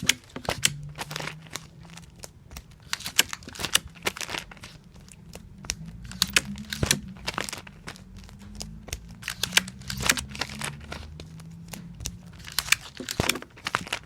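Clear adhesive tape repeatedly pulled from a tape dispenser and torn off, with comic books being handled: irregular sharp snaps and short ripping rasps, several a second at times.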